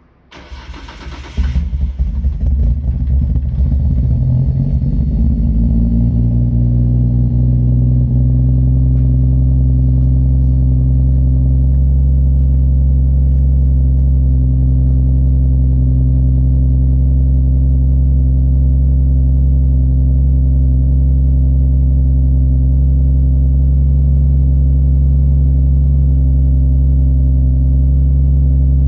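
Nissan Skyline R33's straight-six engine cold-started: the starter cranks it briefly, it catches about a second and a half in, runs unevenly for a few seconds, then settles into a steady idle.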